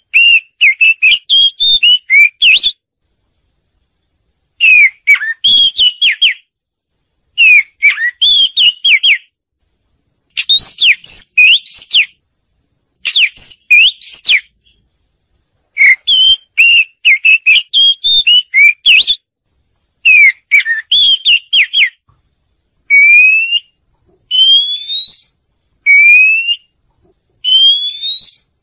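Oriental magpie-robin singing: bursts of varied, clear whistled phrases about two seconds long with short pauses between them, turning in the last few seconds into single rising whistles repeated every second or two. It is a lure recording of the song, used to draw birds in and set them singing.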